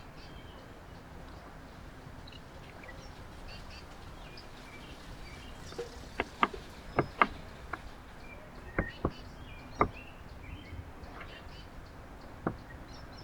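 Small songbirds chirping faintly over a steady outdoor background hiss, with a run of sharp taps and clicks about halfway through and one more near the end.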